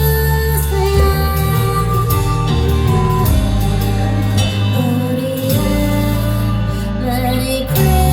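Live band music: a pop song with held chords over a steady bass line.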